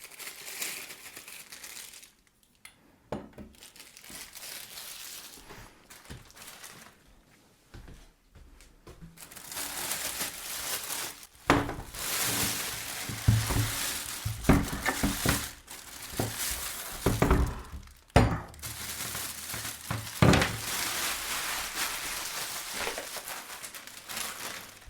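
Plastic bags crinkling and rustling as drill parts are unwrapped, getting busier about ten seconds in, with several sharp knocks of the parts being handled and set down.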